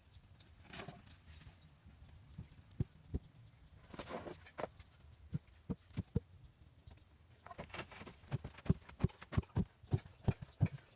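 A series of sharp, irregular knocks, a few at a time at first and then coming thick and fast over the last three seconds, with a brief scraping rustle about a second in and another about four seconds in.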